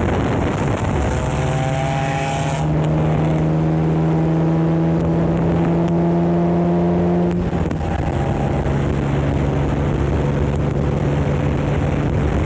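Car engine droning steadily at highway cruising speed, with wind rushing over the microphone for the first couple of seconds until it cuts off abruptly. About seven seconds in, the drone dips briefly and settles a little lower in pitch.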